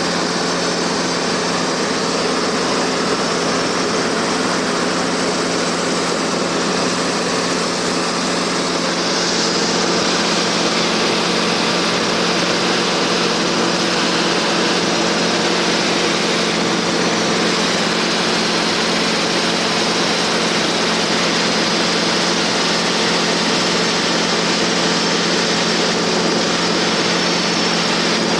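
Cabin noise of a light single-engine Cessna in flight: the piston engine and propeller run at a steady, even drone.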